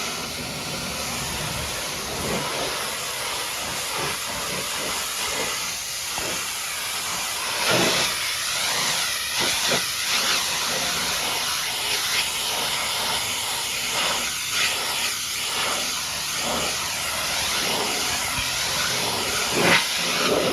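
High-pressure washer jet spraying water against a mud-caked dump truck: a continuous loud hiss that surges briefly now and then as the spray shifts across the surfaces.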